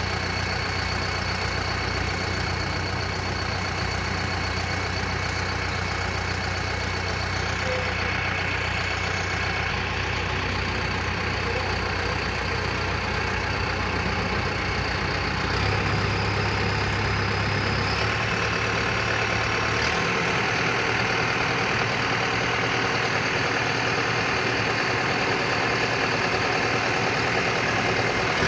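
LS Plus 100 tractor's diesel engine running steadily at idle, its note shifting slightly a little over halfway through.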